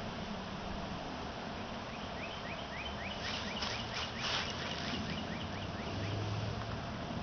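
A bird calling in a rapid series of short rising notes for about three seconds, over a steady hum of honeybees from an opened package. A few sharp clicks come midway.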